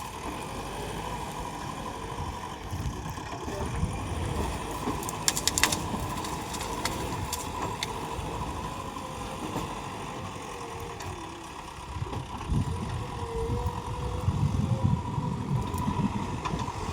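JCB 3DX backhoe loader's diesel engine running at work, with its sound rising and falling and getting louder over the last few seconds. A few sharp clicks come about five seconds in.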